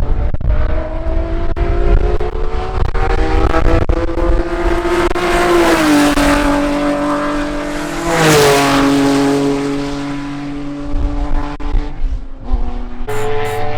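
Honda J35 V6 in a race car with a full exhaust, accelerating on track, its pitch climbing and dropping a step at each upshift. It is loudest as it passes about eight seconds in, then fades.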